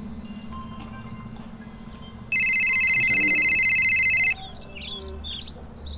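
Mobile phone ringing: a steady electronic ring tone starts about two seconds in, lasts about two seconds and cuts off sharply. After it come a few short bird chirps over a faint steady hum.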